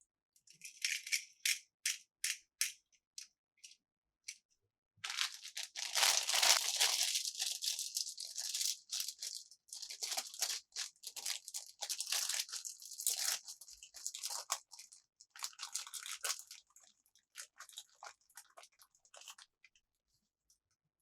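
Small plastic toy pieces and packaging handled up close: a quick run of light clicks and taps, then several seconds of dense crinkling and rustling that thins out to scattered clicks.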